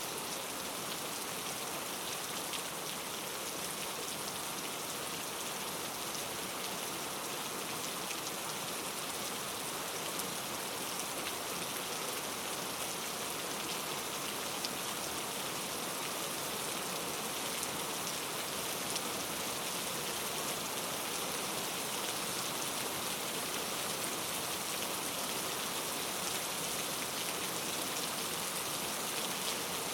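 Steady rain falling on a surface, an even hiss of many small drops with no thunder.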